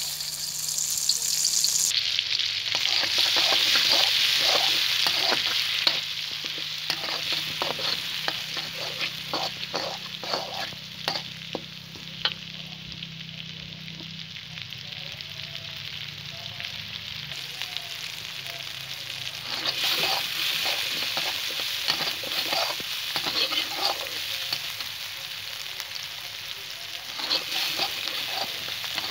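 Ground shallot, garlic and chili paste sizzling in hot oil in a wok while a metal spatula stirs and scrapes it against the pan. A steady frying hiss, louder near the start and again about two-thirds of the way through, with repeated short scraping strokes.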